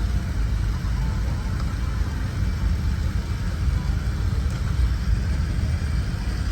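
Steady low rumble of a Boeing 787-9 airliner cabin's background noise.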